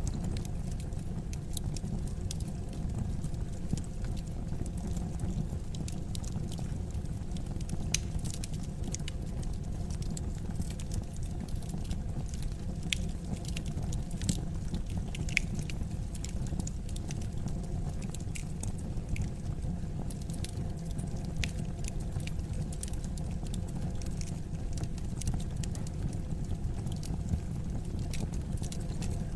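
Wood fire crackling in a fireplace: a steady low rumble of burning, with irregular small pops and snaps scattered throughout.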